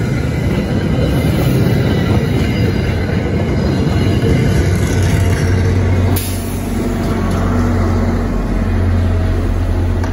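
MBTA commuter train passing: the coaches roll by with a dense rumble of wheels on rail. About six seconds in this gives way abruptly to the steady low drone of the train's MP36PH-3C diesel locomotive going past.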